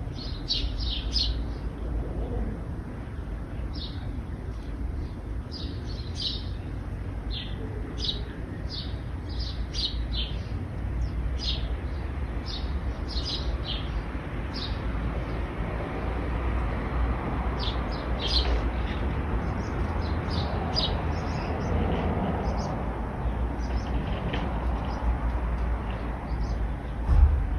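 Small birds chirping in short repeated calls, busy at first and sparser later, over the steady low rumble of road traffic. A vehicle swells past in the second half, and a brief low thump comes near the end.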